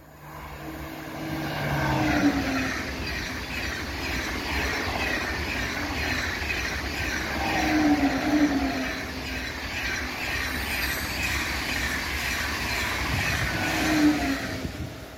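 TGV high-speed train passing at speed: a loud rushing of wheels on rail and air that builds in at the start. A low tone swells and falls about every six seconds as the train goes by.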